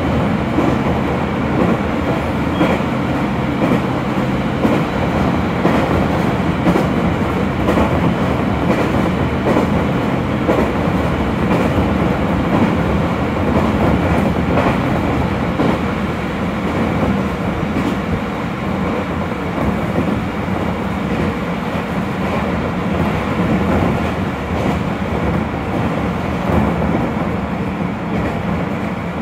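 Electric commuter train running along the track, heard from inside the passenger car: a steady rumble of wheels on rails with a low hum, and occasional faint clicks.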